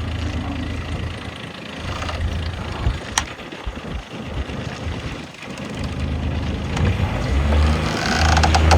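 Catalina 28 sailboat's inboard engine idling with a steady low hum that fades in the middle and comes back stronger near the end. A sharp click comes about three seconds in, among scattered knocks.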